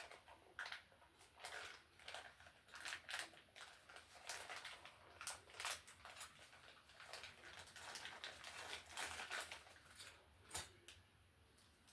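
Irregular light clicks and rustles of small electrical parts being handled: push-in MC cable clamps and a metal handy box.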